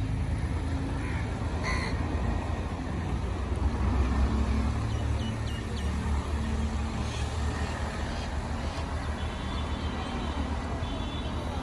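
Birds calling in short, scattered calls over a steady low rumble of roadside traffic.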